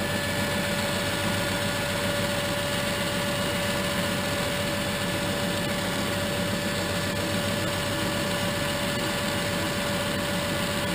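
South Bend 10-inch tool room lathe running steadily, its motor and flat-belt spindle drive giving an even hum with one steady tone.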